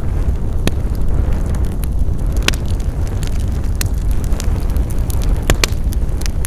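Wood fire crackling, with frequent small snaps and several louder pops at uneven intervals over a steady low rumble.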